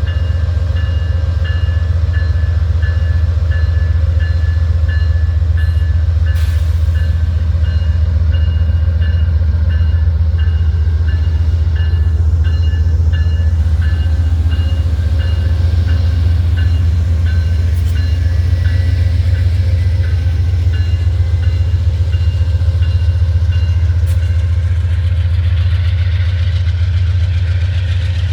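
Amtrak diesel-hauled passenger train pulling out of the station and rolling past: a steady heavy low rumble of the locomotive and cars on the rails. A bell dings about twice a second through most of it and stops near the end.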